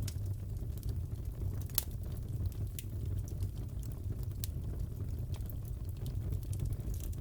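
Wood fire crackling in a fireplace: a steady low rumble with scattered sharp pops and snaps, the loudest a little under two seconds in.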